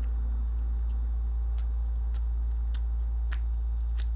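A steady low hum, with a handful of small sharp clicks from chewing fries close to the microphone, about two a second in the second half.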